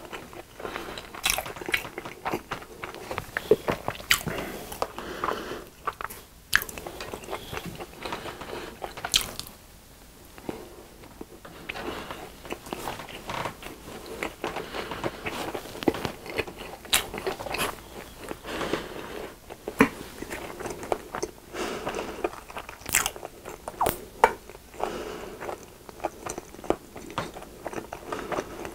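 Close-miked chewing of a corn dog with a crunchy cookie-crumb coating: irregular crisp crunches and crackles as the coating breaks between the teeth, with soft chewing in between.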